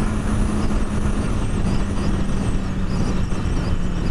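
Wind rushing over a motorcycle helmet at road speed, with the motorcycle's engine running underneath, its note sinking slowly. A faint, thin high whistle wavers above the wind: the annoying whistle the rider's helmet makes above about 40 mph.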